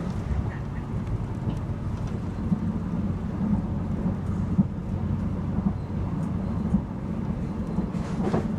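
Passenger train running at speed, heard from on board: a steady low rumble of the wheels on the rails with a few sharp knocks.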